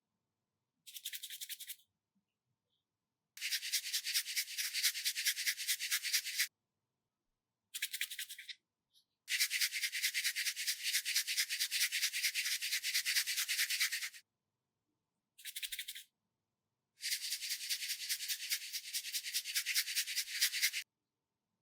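Bursts of rapid scratching or rubbing strokes, some lasting a few seconds and others under a second, with dead silence between them.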